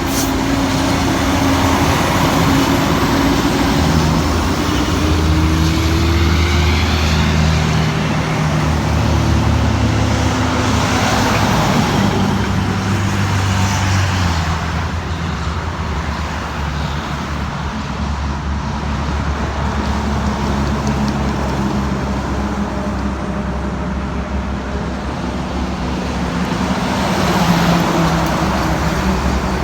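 Road traffic with trucks passing, engines running steadily; one engine's pitch rises for a few seconds about five seconds in, and the traffic noise swells again near the end.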